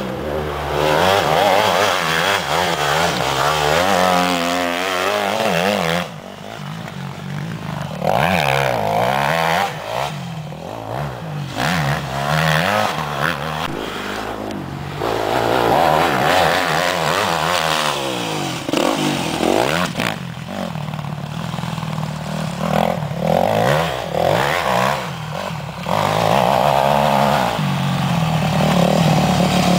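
Motocross motorcycle engines revving up and down repeatedly, with pitch rising and falling as the bikes ride, jump and land, loud stretches broken by brief quieter moments.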